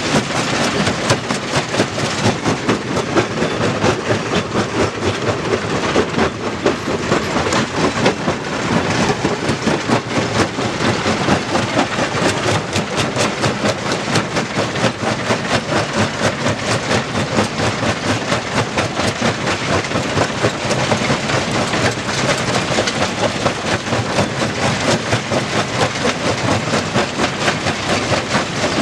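Stone crusher running, with a loud, continuous clatter of rock being broken and rattling through the machine in a quick, even pulsing rhythm.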